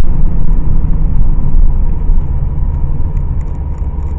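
Car driving, heard from inside the cabin: a loud, steady low rumble of engine and road noise that eases off near the end as the car slows.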